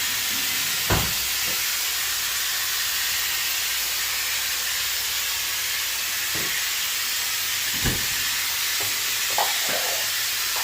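Pressure cooker hissing steadily as it vents steam while cooking beef, with a couple of light knocks.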